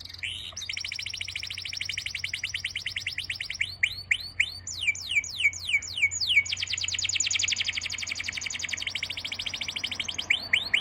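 A songbird singing in long, fast trills of quick whistled notes, broken by slower series of separate rising and falling notes.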